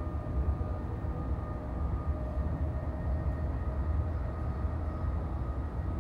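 Cabin ride noise of an NJ Transit Multilevel passenger coach travelling at speed: a steady low rumble of wheels on rail, with faint steady whining tones over it.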